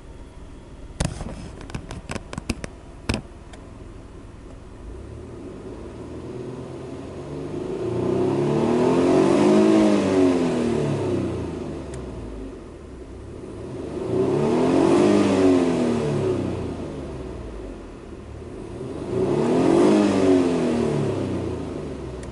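Alfa Romeo GTV 2.0 V6 Turbo's turbocharged V6 running at idle, with a quick run of sharp clicks in the first few seconds. It is then revved three times, each a slow rise and fall in pitch lasting several seconds.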